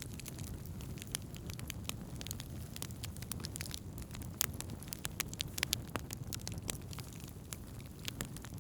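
Wood campfire crackling, with sharp irregular pops and snaps of burning wood over a steady low rumble.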